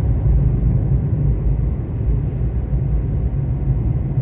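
Steady low rumble heard inside a parked car's cabin, unchanging throughout.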